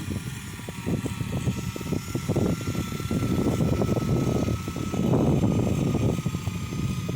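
Sidewinder aircraft tug running under load while pulling an aircraft: a rough, fast-pulsing low mechanical noise that swells twice, over a steady high whine.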